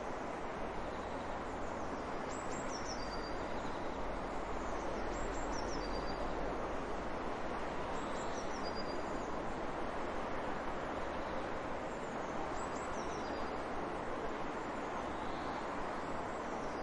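Steady rush of flowing water, with a bird repeating a short, high, quickly falling call about four times, a few seconds apart.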